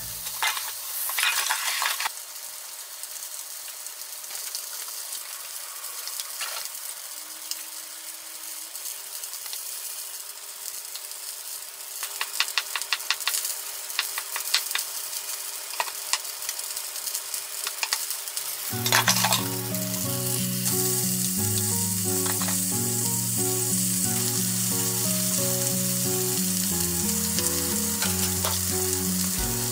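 Chicken thigh sizzling steadily as it fries skin-side down in an oiled frying pan, with a knife chopping on a wooden cutting board in quick strokes about halfway through. Background music comes in about two-thirds of the way through, and the sizzle is louder from then on.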